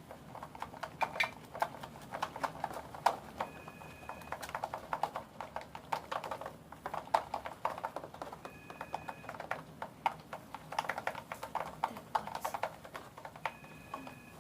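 A phone ringing: a short two-note electronic tone that comes three times, about five seconds apart. Beneath it, a dense run of quick clicks and squelches from slime being stirred in a pot as activator is mixed in.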